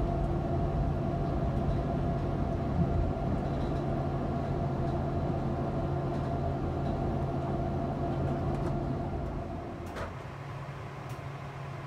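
ÖBB Nightjet sleeping car heard from inside its corridor: a steady rumble with a droning hum of the moving train, which drops away about ten seconds in as the train comes to a halt in the station. A single short click follows, and a quieter hum remains.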